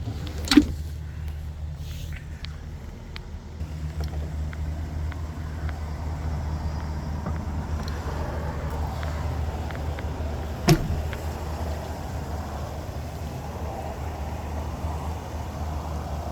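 The truck's 6.6-litre gas V8 idling with a steady low rumble. Two sharp knocks break through it, one about half a second in and one about ten seconds later.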